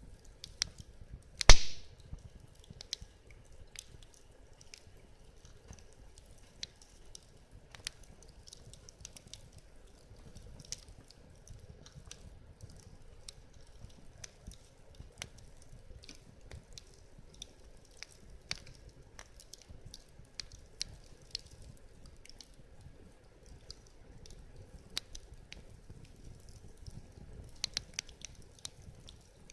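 Wood fire crackling, with scattered irregular pops and one much louder snap about a second and a half in.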